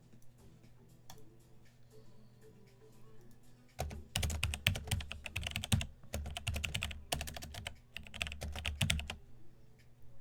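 Typing on a computer keyboard: faint scattered taps, then about four seconds in, rapid clicking in three quick runs that stops about a second before the end.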